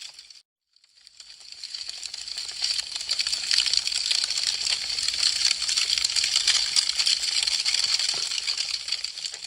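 Burning wood crackling, a dense run of small sharp pops and snaps. It fades out right at the start, goes silent for a moment, then swells back in over about two seconds and carries on steadily.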